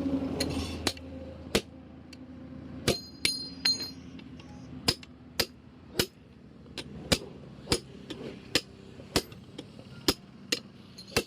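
Hammer striking metal, about fifteen sharp blows spaced roughly half a second to a second apart. Some of them leave a short metallic ring.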